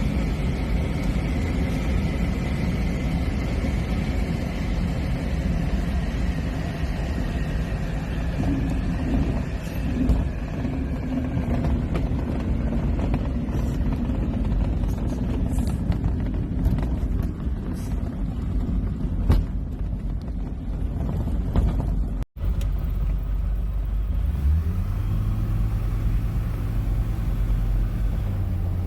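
Small airplane's engine and airflow in flight, a steady loud drone heard from inside the cockpit. About 22 s in the sound cuts off abruptly and gives way to a lower, smoother engine drone with a few steady tones.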